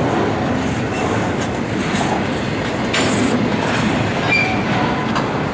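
Intermodal freight train's cars rolling past, wheels clacking over rail joints with a steady rumble and a few brief high wheel squeals.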